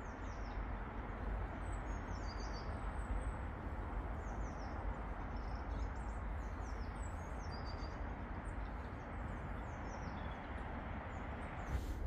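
Small birds giving short, high, thin chirps scattered throughout, over a steady low background rumble.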